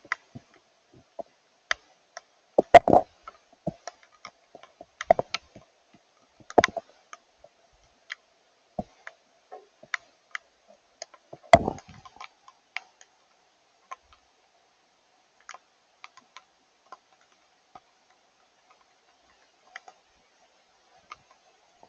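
Scattered water drops of rain and snowmelt ticking irregularly on a hard surface, with a few heavier knocks in the first half and sparser ticks later. A faint steady hum runs underneath.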